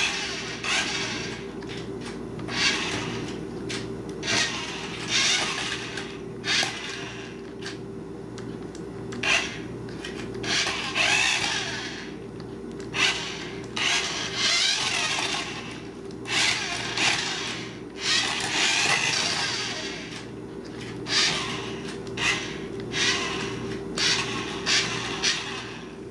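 Small electric motor and gears of a remote-control toy car whirring in short, irregular bursts as it is driven forward and back in spurts.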